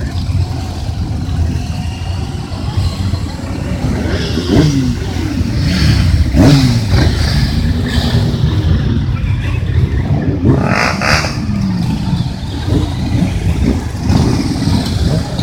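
Motorcycle engines running and revving as bikes pass, the engine pitch falling as each goes by, over a steady low rumble.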